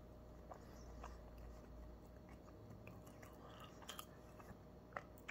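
Faint chewing of a bite of chicken wrap with crunchy cabbage and carrots, with a few soft mouth clicks, two of them near the end.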